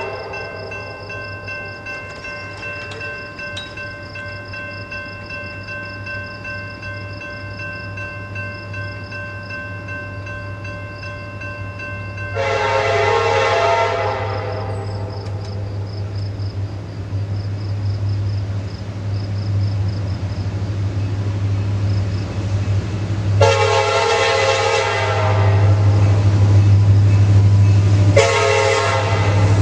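Diesel freight locomotive horn sounding several separate blasts, about 11 s, then 5 s apart, over a low engine rumble that grows louder as the train approaches.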